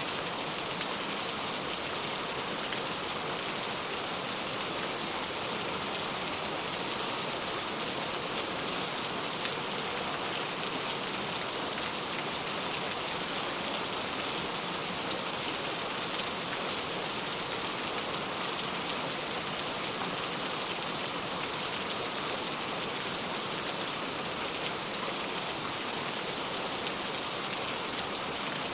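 Steady rain falling on the ground, a continuous even hiss of drops with fine pattering.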